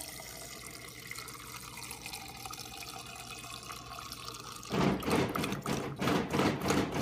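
Water running from a GE Profile refrigerator's door dispenser. Near the end, a sudden loud rapid rattling starts up. This is the awful noise the owner says sounds like a bad water pump.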